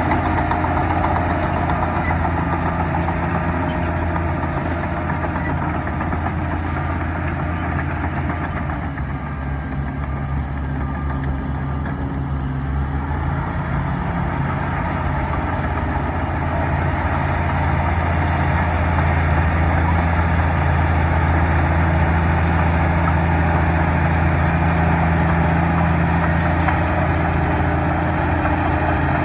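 Bulldozer's diesel engine running steadily, easing off briefly about nine seconds in and then picking up again.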